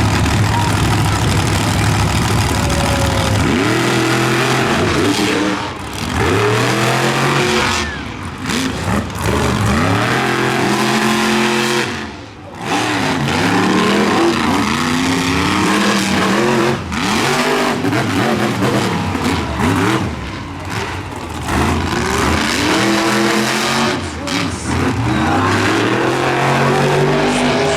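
Monster truck engines revving hard over and over. The pitch climbs in repeated upward sweeps, with brief drops where the throttle is lifted.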